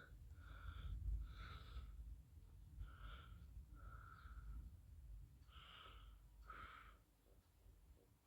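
Near silence with faint, short breaths, roughly one a second, over a low rumble.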